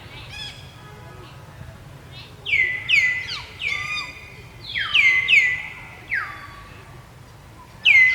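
A series of high-pitched macaque calls, each sliding sharply down in pitch and ending in a short held note, about seven in all, with the loudest near the end.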